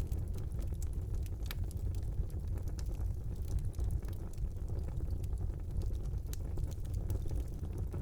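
Wood fire burning in a brick fireplace: a steady low rumble of flames with frequent small, irregular crackles and pops.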